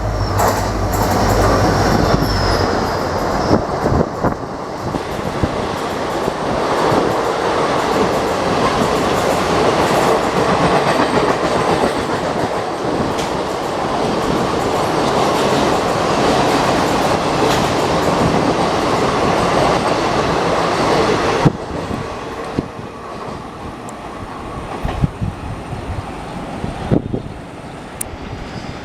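Express train coaches rolling past at speed behind a diesel locomotive, a loud continuous rumble with wheel clatter. It drops away suddenly about 21 seconds in as the train clears, leaving a quieter rustle with a few clicks.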